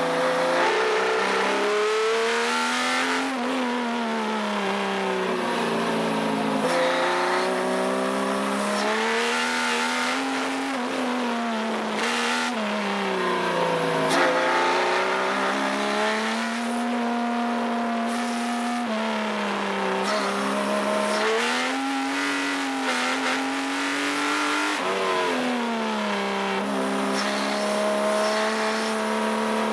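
Subaru EZ30 3.0-litre flat-six engine in a Porsche 914/6 driven hard on track. The revs rise and fall repeatedly, with sudden drops in pitch at a few points, as in gear changes.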